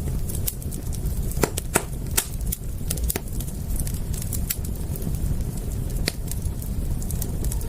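Wood fire crackling: irregular sharp pops and snaps, a few louder ones in the second and third seconds and one about six seconds in, over a steady low rumble.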